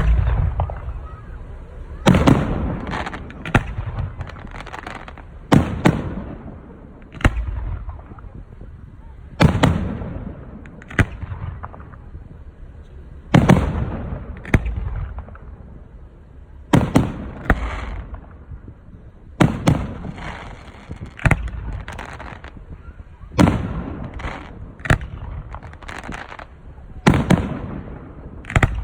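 Aerial firework shells bursting in a display: a sharp boom every two to four seconds, often two close together, each followed by a rolling echo that dies away.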